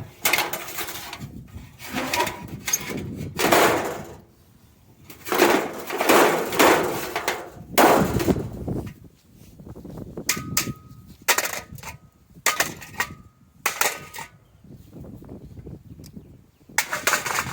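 Metal casting mould knocked and dropped against the ground to free cast aluminium ingots: a series of heavy metal bangs, then lighter clinks about ten seconds in that ring briefly with a metallic tone.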